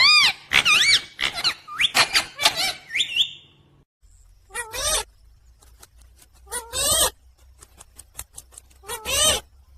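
Pet parrot squawking and chattering in high, quickly wavering calls: a rapid run of them for the first three seconds or so, then three single calls about two seconds apart.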